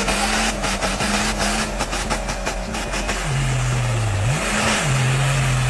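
Car engine running under load off-road, its pitch holding steady, then dropping about halfway through, with a quick rev up and back down before settling at the lower pitch. Rapid knocks and crackles sound over the first half.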